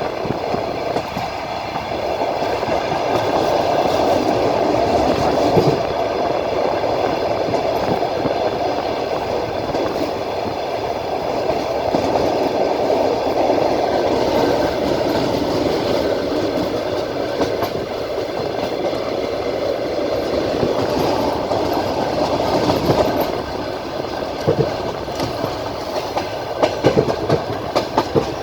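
Passenger train running, heard from a carriage: a steady rolling rumble of wheels on rail, with distinct clicks of the wheels over rail joints near the end.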